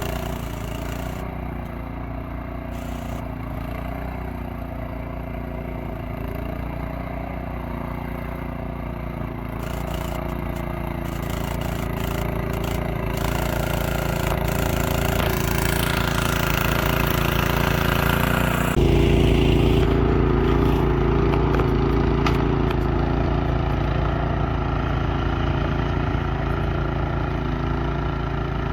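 An engine running steadily, getting louder over several seconds, then shifting suddenly to a louder, heavier note about two-thirds of the way through.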